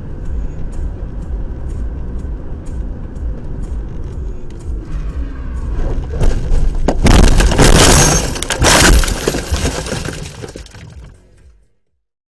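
A car crash: loud impacts and breaking, shattering glass from about halfway through, over low vehicle rumble with faint regular ticks beforehand. The sound fades and then cuts off near the end.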